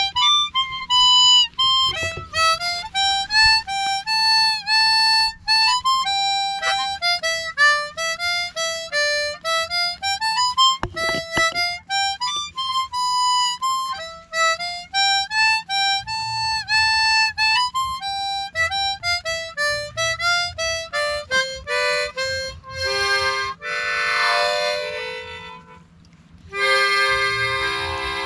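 Harmonica playing a melody in single notes, then sounding chords of several notes together in the last few seconds.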